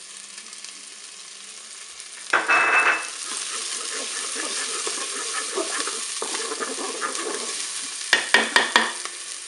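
Chopped onion and garlic sizzling in hot olive oil in a Cookeo multicooker's non-stick bowl on its browning setting, stirred and scraped with a wooden spatula. A loud burst of sizzling comes a little over two seconds in as the garlic goes into the oil, and a few sharp knocks come near the end.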